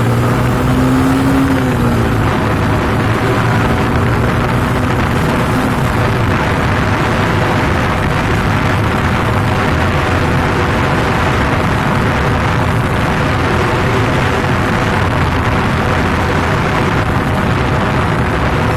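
Yamaha FZ motorcycle being ridden: the engine note rises briefly in the first couple of seconds, then the engine runs steadily under dense wind and road noise.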